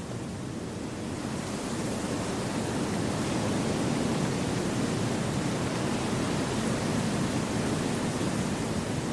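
Wind rushing through forest trees as a steady whooshing noise, swelling over the first few seconds and then holding level.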